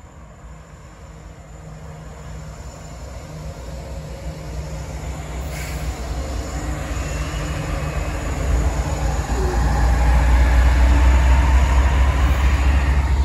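CSX freight train's diesel locomotives approaching, their low engine rumble growing steadily louder and loudest near the end.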